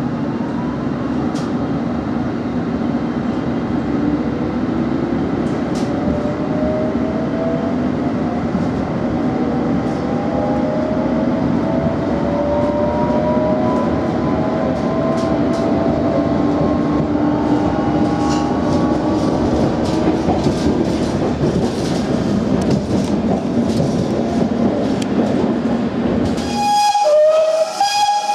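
Electric Underground train heard from inside the carriage, pulling out: steady running noise with the traction motors whining and rising slowly in pitch as it gathers speed, then wheels clicking over rail joints. Near the end the sound cuts to a steam locomotive standing in steam, with a brief loud tone and a high hiss.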